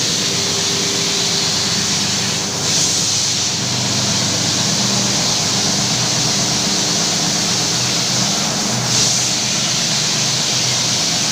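A carpet-washing machine running: a steady motor hum under a loud, even hiss, with two brief swells in the hiss, one about three seconds in and one near the end.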